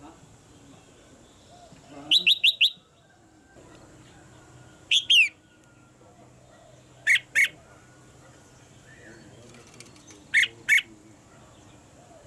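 Red-whiskered bulbul calling in short, sharp bursts: a quick run of four notes, then three more pairs of notes a few seconds apart.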